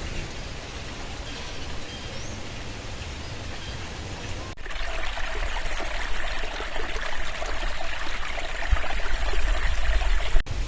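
Low wind rumble; after a sudden cut about halfway through, the sound of running water comes in over the rumble.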